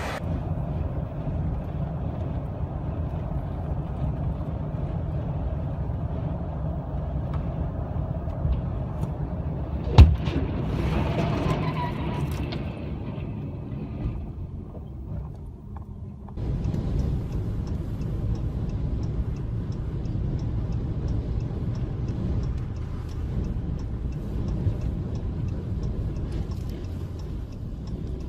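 Heavy vehicle engine rumbling steadily, with one sharp bang about ten seconds in. The rumble fades a few seconds later and returns abruptly near the middle, now with faint rapid ticking.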